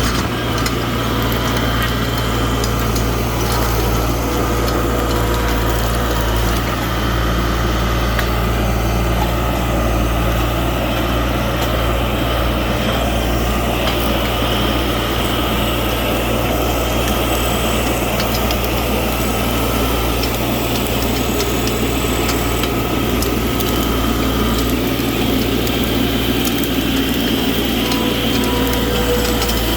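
New Holland LS180 skid steer's engine running steadily.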